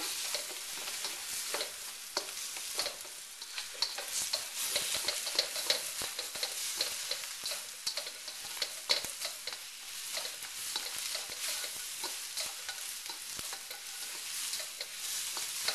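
Beaten eggs sizzling in hot olive oil in a wok as they set into scrambled egg, stirred, with frequent short clicks and scrapes against the pan.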